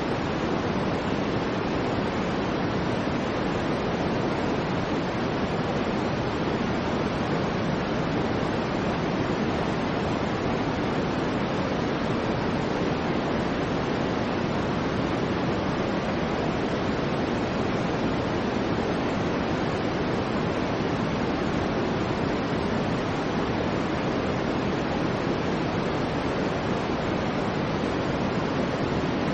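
Soft white noise played as a sleep aid: a constant, even hiss weighted toward the lower pitches, with no swells, pauses, or changes.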